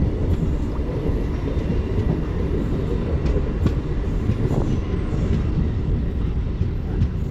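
MEMU electric passenger train running along the track: a steady low rumble of wheels on rails with faint scattered clicks.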